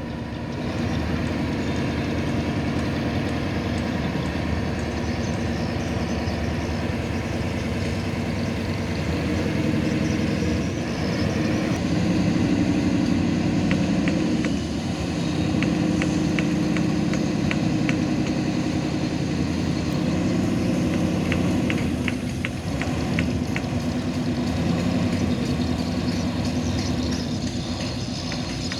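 Tugboat engine running steadily at a low, even pitch, with a scatter of faint ticks partway through.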